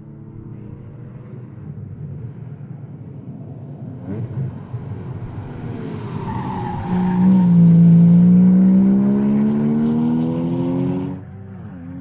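2013 Porsche Cayman S's 3.4-litre flat-six pulling hard on track. The revs climb slowly, then get much louder about seven seconds in and rise steadily for several seconds before cutting off sharply near the end. Tyres squeal briefly about six seconds in.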